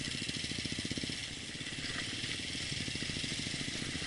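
Motorcycle engine running at low, steady speed, with a quick, even firing pulse, under a constant hiss of wind and road noise on the ride-along microphone.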